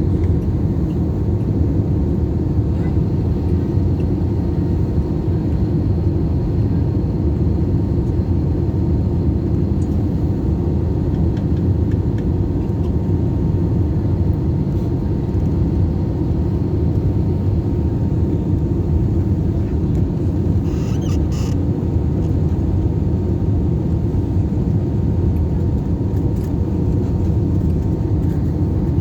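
Airliner cabin noise on the approach: a steady, loud low rumble of engines and airflow with a faint steady hum, heard from inside the passenger cabin. A few faint clicks about 21 seconds in.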